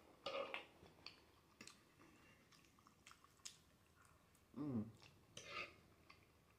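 Faint eating sounds: black bean noodles chewed with wet lip smacks, a few light sharp clicks, and a short hummed "mm" about two-thirds of the way through.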